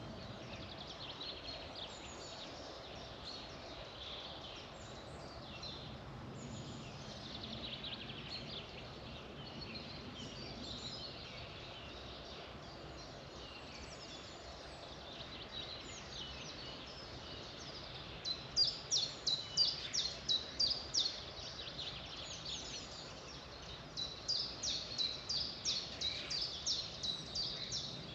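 A chorus of songbirds chirping and singing over a steady background hiss. Twice, from about two-thirds of the way in and again near the end, one bird repeats a loud, sharp note about four times a second for a few seconds.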